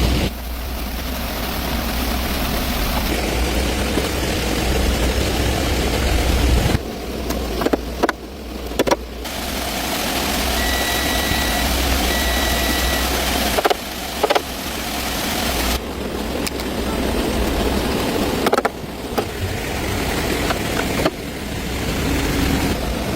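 A car engine running, the sound breaking off and changing abruptly several times, with two short beeps about halfway through.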